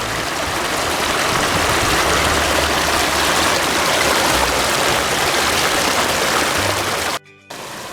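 Small waterfall splashing: a steady rush of falling water that cuts off abruptly about seven seconds in.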